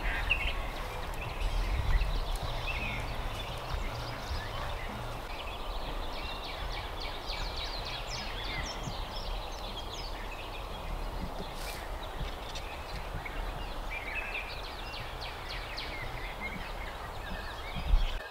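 Birds calling: many short scattered chirps and calls, with a few brief gliding notes, over a low steady rumble. A low thump comes near the end.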